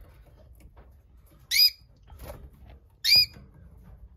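Domestic canary giving the same short, sharp call twice, about a second and a half apart.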